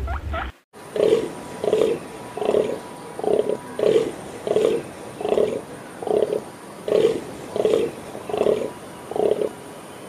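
An animal calling: a steady run of about a dozen short, low calls, roughly three every two seconds, starting just under a second in after a brief silence.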